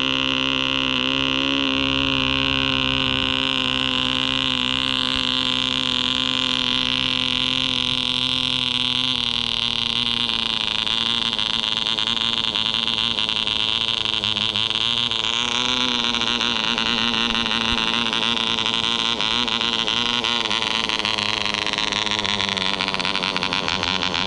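Soviet MK-12V model aircraft engine, a small two-stroke compression-ignition engine running on an ether, kerosene and castor oil mix, running steadily. Its pitch shifts slightly a couple of times.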